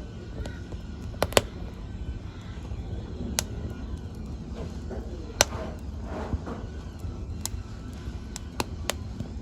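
Wood fire in a fireplace crackling, with scattered sharp pops every second or so over a low steady rumble of the flames; the loudest pops come about a second in and about five seconds in.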